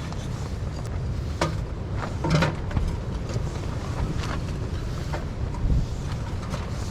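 Strong wind buffeting the microphone as a steady low rumble, with a few scattered light clicks and knocks.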